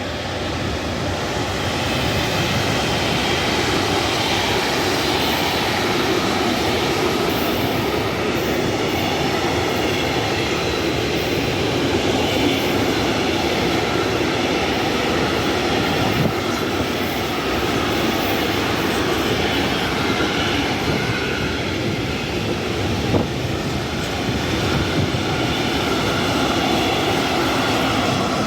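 A train passing on the track: a loud, steady rumble of wheels on rail that builds over the first two seconds and then holds, with a couple of sharp clicks.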